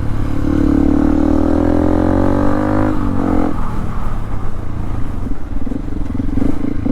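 Yamaha WR155R's single-cylinder engine running under way, its pitch rising slightly, then the revs dropping off about three seconds in and the engine running lower and rougher after.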